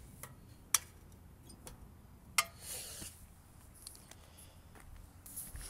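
Two sharp clicks, about a second and a half apart, over a faint low rumble.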